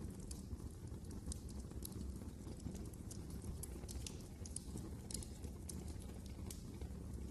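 Wood fire crackling: irregular sharp pops and snaps, a few a second, over a steady low rumble of burning.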